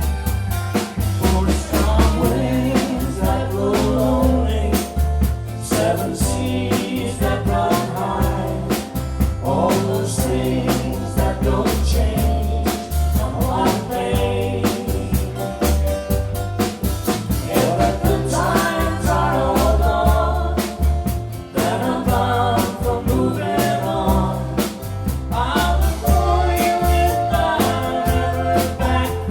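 A live band plays a folk-country song, with a lead voice singing over a drum kit beat and a bass line that moves step by step.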